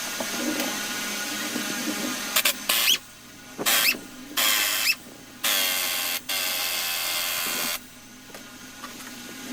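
Handheld electric power tool running in short bursts as it works bolts loose on an engine's top end: three brief runs, then one of about two seconds, the motor winding up at the start of some bursts.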